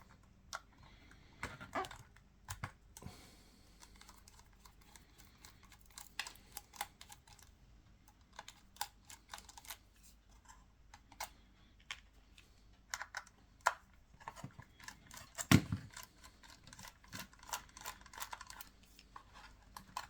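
Irregular light clicks and taps of small tools, screws and plastic parts being handled while a Canon EOS 5D DSLR body is taken apart. One louder knock comes about fifteen seconds in.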